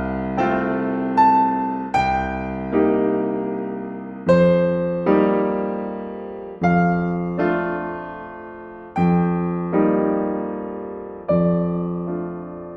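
Slow, gentle solo piano music: soft chords struck one after another, each left to ring and fade before the next.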